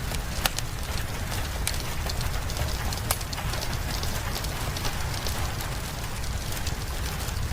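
Steady rain hissing with a wood fire crackling over it: sharp pops now and then, the strongest about half a second in and again about three seconds in, over a low steady rumble.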